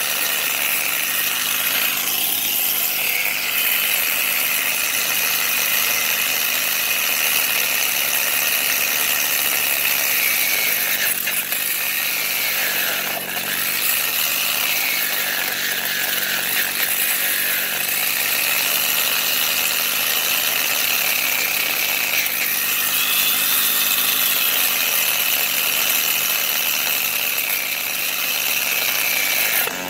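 Angle grinder cutting through the steel U-bolts that hold the truck's front axle: a loud, continuous high whine whose pitch sags under load and climbs back several times.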